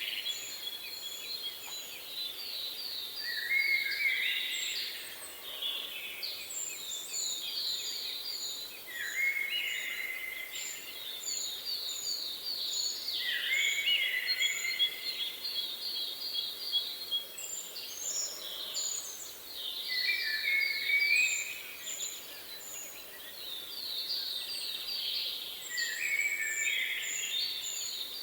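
Songbirds singing: a phrase every four to five seconds, a quick run of notes stepping down from high to middle pitch, with strings of short, thin, high notes between, over a steady background hiss.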